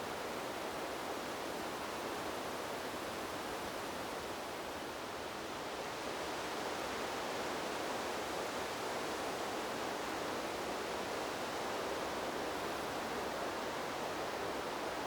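Wind blowing through trees: an even, rushing hiss with no distinct gusts, easing slightly and then swelling a little about six seconds in.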